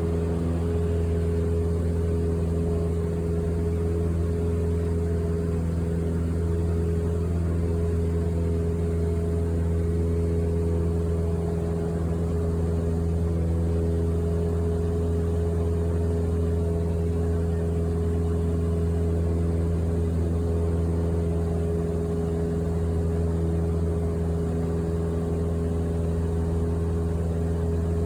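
Steady aircraft engine drone heard from inside the passenger cabin: a strong low hum with a few steady tones above it that stays even throughout.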